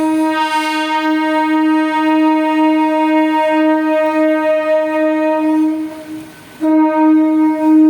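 MEMU electric multiple unit's horn sounding a long steady blast that breaks off about six seconds in, then sounds again a moment later.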